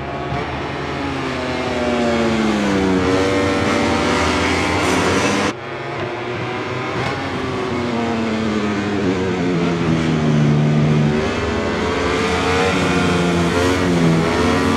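MotoGP racing motorcycle, a 1000 cc four-cylinder prototype, at full race pace. The engine note drops in steps as the rider brakes and downshifts, then climbs again under hard acceleration. The sound changes abruptly about five and a half seconds in.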